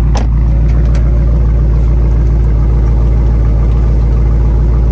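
2020 Dodge Charger Scat Pack's 392 (6.4-litre) HEMI V8 idling steadily, with a sharp click just after the start.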